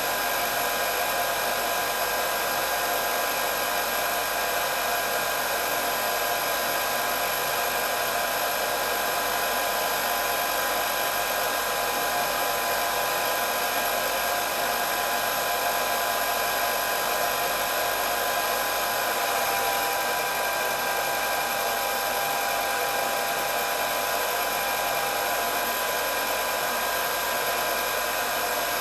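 Electric hair dryer running continuously: a steady rush of blown air with a constant high motor whine.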